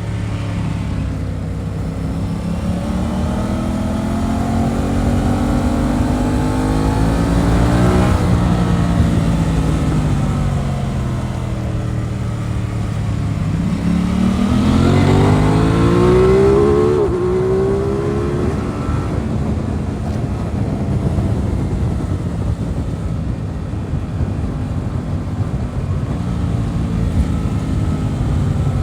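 Aprilia RS 660 parallel-twin engine heard from the rider's seat under way. The revs climb for several seconds and ease off, then climb steeply again with a gear change about seventeen seconds in, before holding at a steady cruise. Wind and road rush run underneath.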